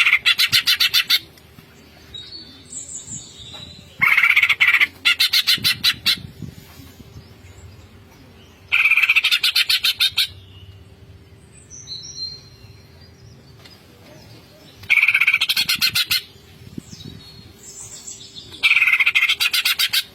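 Green leafbird (cucak ijo) calling in its 'ngentrok' style: five loud bursts of rapid, rattling repeated high notes, each about a second and a half long and coming every four to five seconds. Softer short whistled notes fall in the gaps.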